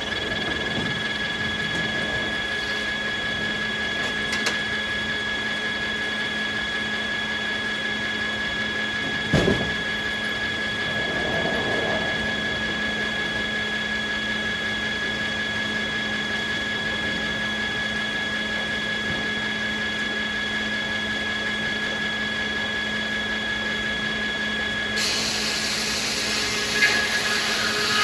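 Sawmill machinery running steadily with a high, even whine. A single knock comes about nine seconds in, and louder rushing noise starts near the end.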